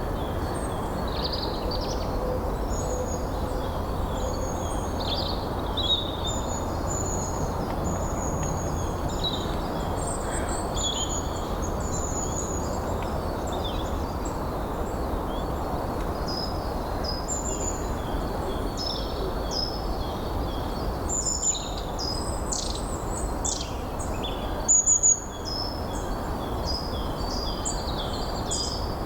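Wind blowing steadily under many small birds singing and chirping throughout, with a quick, louder triple burst of sound near the end.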